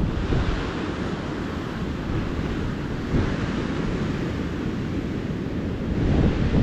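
Ocean surf washing onto a beach, a steady rush of breaking waves that swells about every three seconds.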